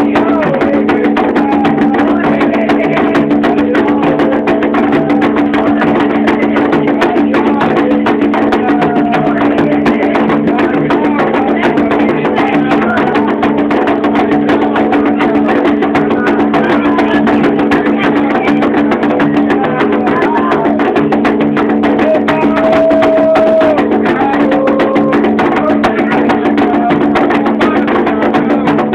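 Afro-Brazilian ritual music for Xangô: fast, continuous hand drumming with a sharp wood-block-like clatter, and voices singing over it.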